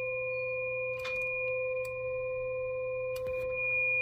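Steady electronic test tones, a low tone and a higher one held unchanging, from the two-tone audio signal used for a single-sideband transmit test of a CB radio. A few faint clicks.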